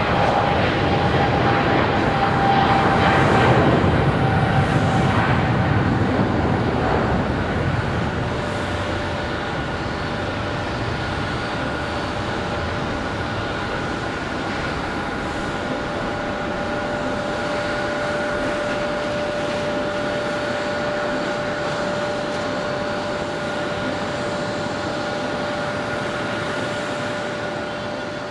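Jet airliner engines: a loud roar that peaks a few seconds in and eases off by about seven seconds, then a steady engine noise with a high whine of several held tones.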